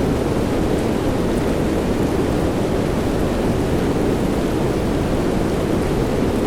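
Steady rain, an even, dense wash of noise weighted toward the low end, with no separate events.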